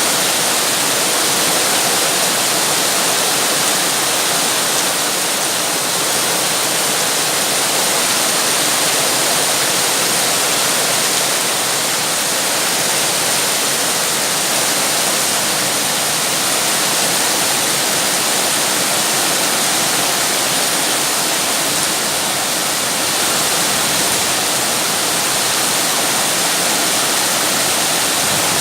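Steady heavy rain: a constant, even hiss with no single drops, thunder or other events standing out.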